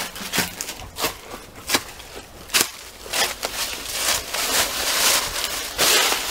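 Footsteps crunching over gritty debris, a step roughly every 0.7 s, running into denser crunching and scuffing near the end.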